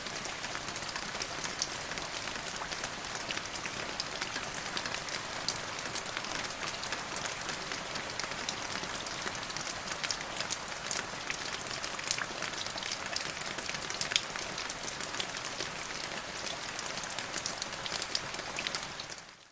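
Steady rain falling, a constant hiss filled with many small, sharp drop hits. The sound fades out sharply at the very end.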